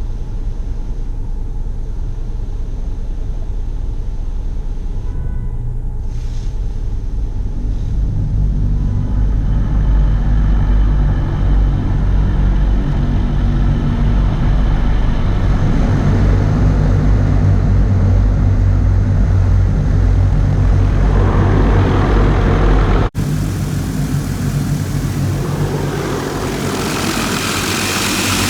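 Mark VII ChoiceWash XT touch-free car wash on its high-pressure cycle, heard from inside the car: a steady low drone of water jets on the car body that grows louder about a third of the way in. It cuts out abruptly for an instant near the end, then comes back as a brighter hiss of spray.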